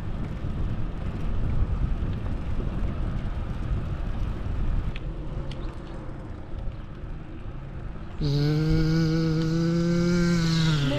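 Wind and road rumble on a bicycle-mounted action camera while riding. About eight seconds in, a loud, steady single-pitched sound is held for nearly three seconds and dips in pitch as it stops.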